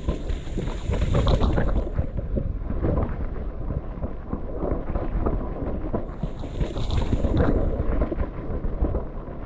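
Wind rushing over the camera microphone on a downhill mountain bike run, with a steady rumble and frequent knocks from the bike going over rough, wet trail. A brief high hiss comes near the start and again about seven seconds in.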